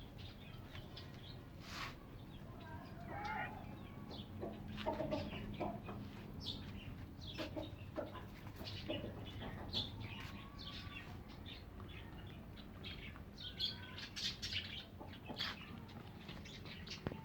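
Backyard hens and chicks clucking and cheeping as they feed, with many short scratchy clicks and rustles of pecking and movement and a steady low hum underneath.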